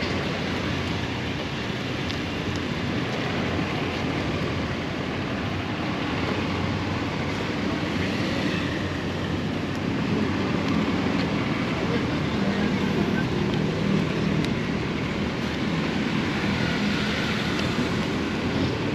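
Motorcycle engine running steadily under way, mixed with rushing wind noise, getting a little louder about halfway through.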